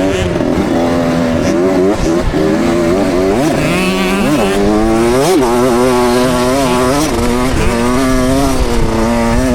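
KTM 65 SX two-stroke motocross bike engine revving up and down again and again as it is ridden round the track, with the pitch rising under throttle and dropping off, several times over. Wind rushes on the helmet-mounted microphone underneath.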